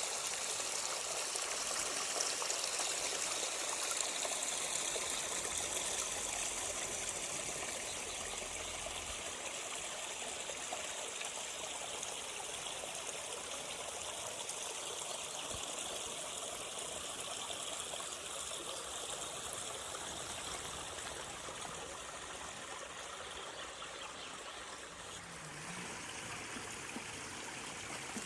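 A small stream flowing and trickling steadily, a continuous rush of water that softens slightly toward the end.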